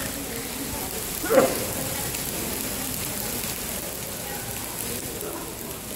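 Heavy rain falling on a flooded stone pavement: a steady hiss of rain and splashing water. A person's voice is heard briefly about a second and a half in.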